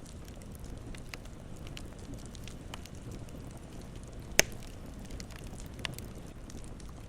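Campfire burning, a low steady rumble with scattered small crackles and a sharp, loud pop about four and a half seconds in, and a smaller one near six seconds.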